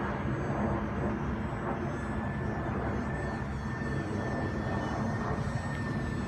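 Twin-engine radio-controlled model Aero Commander airplane in flight, its engines a steady high whine over a constant low rumble.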